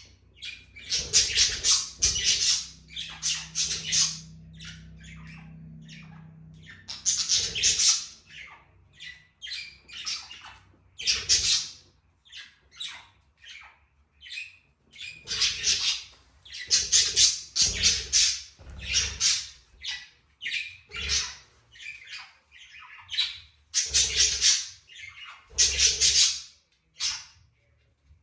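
Budgerigars chattering and squawking in short, harsh calls that come in irregular clusters with brief pauses between them.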